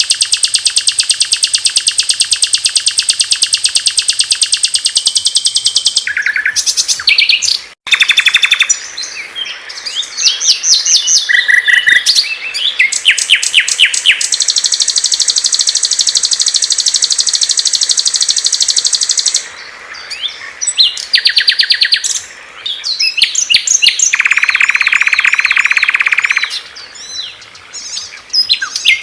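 Small songbirds singing in a chain of very fast, high-pitched trills and chip series, each running several seconds before switching abruptly to another bird's song. One of the trills, near the end, is lower.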